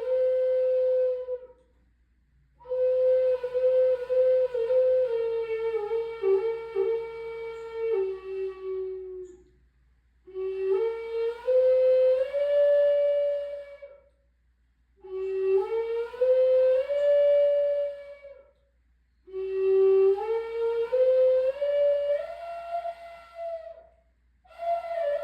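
A flute played slowly in separate breath-long melodic phrases with short pauses between them. The early phrase steps downward and the later ones climb stepwise in pitch.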